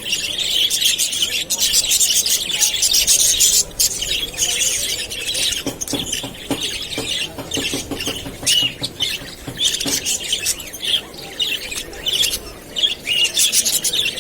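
Many small birds chirping and chattering at once, with constant overlapping short calls and squawks.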